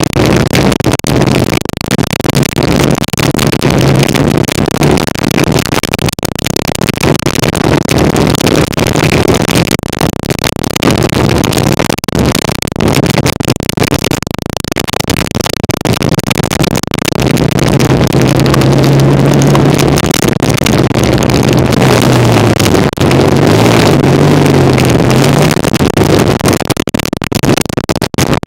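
1975 Kawasaki KZ400 parallel-twin motorcycle engine running under way, its note rising and wavering a little in the second half as the throttle changes, over heavy wind rush on the microphone.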